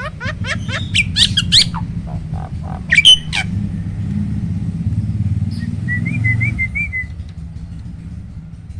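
Hybrid starling (Asian pied starling × black-winged starling) calling: a quick run of rising notes, then loud shrill notes about three seconds in, and a soft warble near the end. Under the calls runs a steady low engine rumble of passing motor traffic, loudest in the middle.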